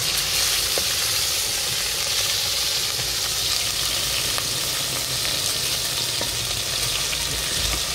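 Chicken frying in oil in a metal pot, sizzling steadily as it is stirred with a spoon, with a few light clicks.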